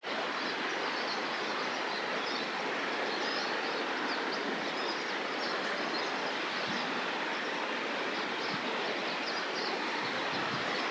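Steady rushing of a river, the Nenana, with faint short high chirps over it.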